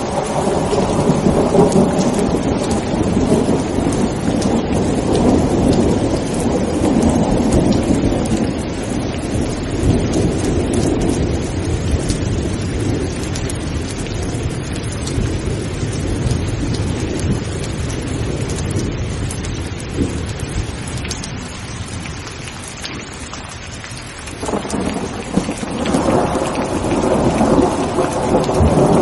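Steady heavy rain with rolling thunder, the rumble swelling and fading for most of the span, dying down about three-quarters of the way through, then breaking out again suddenly near the end.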